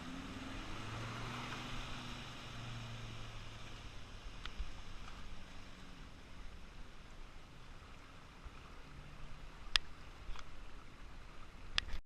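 A low motor hum that fades out over the first few seconds, leaving a steady hiss. Later come a few sharp clicks, two of them louder near the end.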